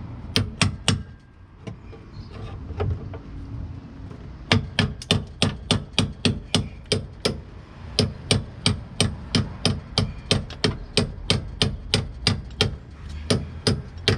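Hammer blows on the car's rusted rear arch bodywork, breaking away a cut-out section: three quick blows, a pause, then a long run of steady strikes at about three a second.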